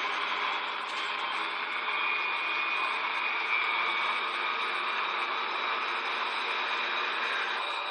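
Steady, hissy roar of vehicles driving at speed, engine and road noise together, with a faint high whine over it; it eases slightly near the end.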